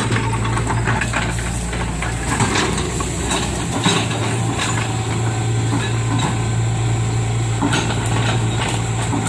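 Engine of an oil palm loader lift truck running steadily, with repeated metal clanks and rattles from the working machine. The deepest part of the engine note drops away about four seconds in.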